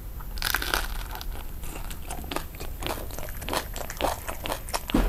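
Close-up crunchy biting and chewing of a rice-paper roll of Vietnamese grilled pork sausage (nem nướng) and fresh herbs. A loud crunch comes about half a second in, followed by many quick, crisp crackles of chewing.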